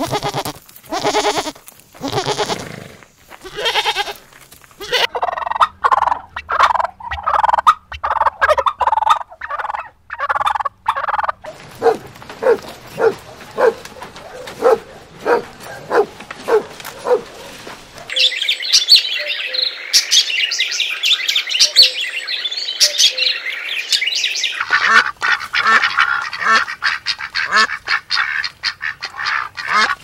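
A string of farmyard animal calls, mostly domestic waterfowl honking and quacking in repeated calls, with a stretch of dense high-pitched chirping past the middle.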